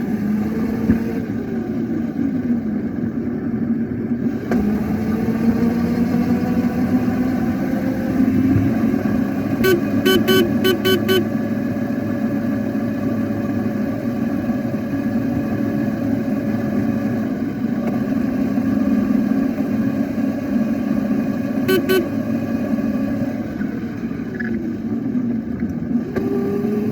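A small motorbike running as it is ridden, its hum sliding down in pitch near the start and rising again near the end. About ten seconds in comes a quick run of five short horn beeps, and about twenty-two seconds in two more.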